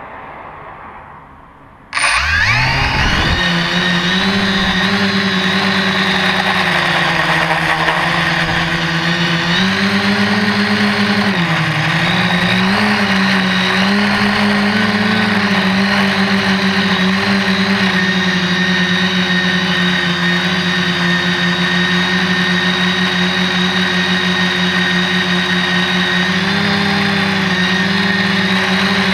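SK450 quadcopter's brushless motors and propellers spinning up about two seconds in, then a loud, steady buzzing hum that dips in pitch briefly a couple of times as the throttle changes.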